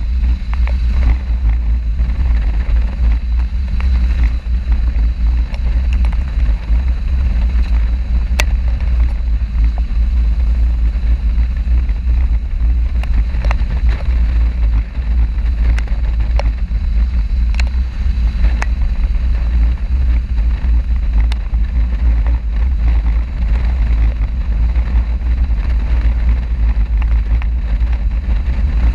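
Steady low wind rumble over the microphone of a moving motorcycle, with vehicle noise underneath and a few faint ticks.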